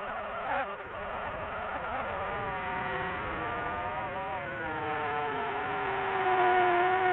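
Small camera drone's propellers whining, the pitch wavering up and down as the motors change speed.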